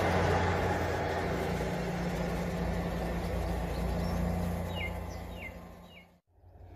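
Class 158 diesel multiple unit receding, a steady low engine hum under rail rumble that slowly fades. Near the end a bird gives three short falling chirps, then the sound cuts off suddenly.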